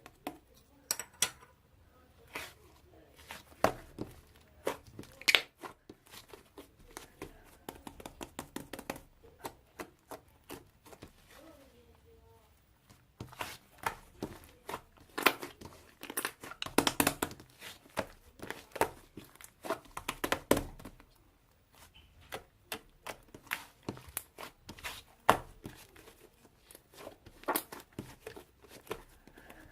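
Hands squishing, stretching and pressing slime, making many sharp, irregular pops and clicks that come in quick clusters with short quieter gaps.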